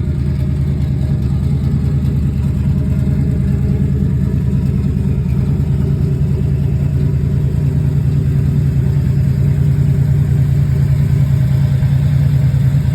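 1967 Plymouth Barracuda engine idling steadily with a low, pulsing exhaust note, still cold within a minute of a cold start. It grows slightly louder toward the end.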